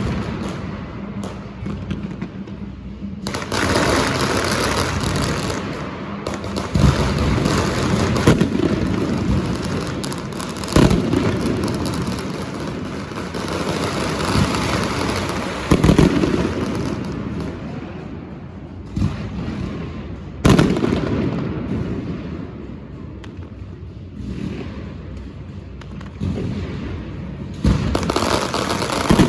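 Fireworks going off: a continuous crackle with sharp booms every few seconds, about seven in all.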